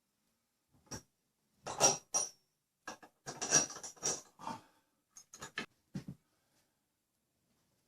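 Small metal fittings, star washers and nuts, clinking and rattling as they are handled and fitted onto bolts: a string of short clicks and jingles, some with a brief high metallic ring.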